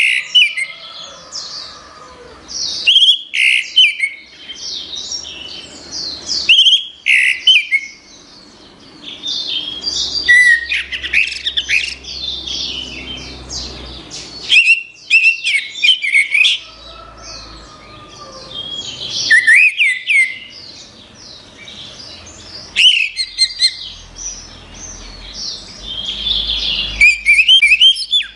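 Orange-headed thrush (anis merah) singing: loud, rapidly varied high phrases delivered in bouts, with short pauses between them and longer unbroken runs of song around the middle and near the end.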